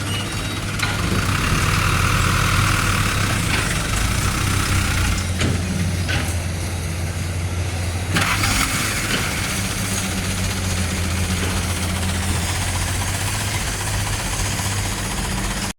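Heavy truck's diesel engine running steadily at idle, a low even hum, with a stretch of hiss lasting a few seconds starting about a second in.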